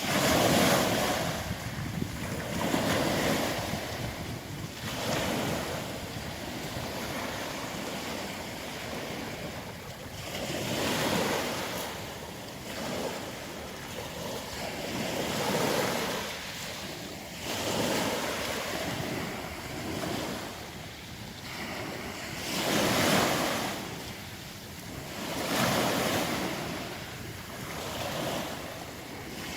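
Sea surf breaking on a pebble beach, the rush of each wave swelling and falling away every two to three seconds.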